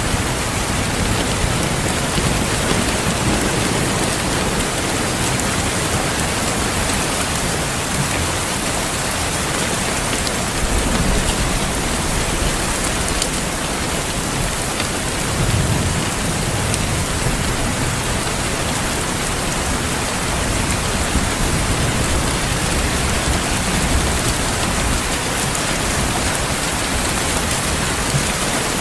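Steady heavy rain hissing on a surface, with low rolls of thunder rising and fading a few times, most clearly about halfway through.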